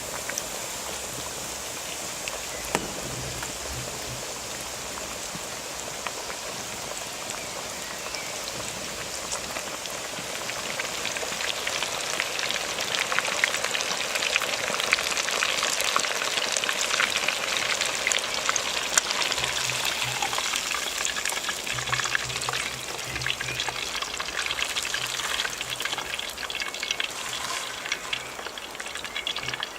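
Food sizzling as it fries, with a dense hiss and many fine crackles, growing louder about ten seconds in.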